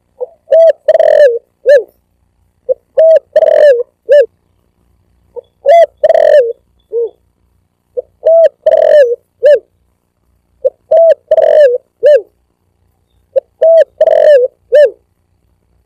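Spotted dove (tekukur) cooing, played as a looped lure call. Six identical phrases come about every 2.7 seconds, each a quick run of short coos and a longer falling coo, ending in one short coo, with silence between.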